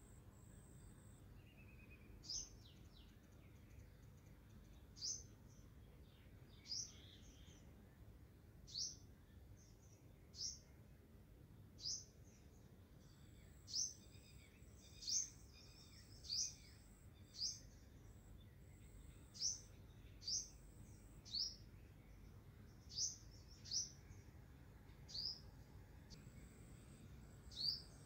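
A small bird chirping over and over, short high falling notes about one every second or so, over a faint steady background hum.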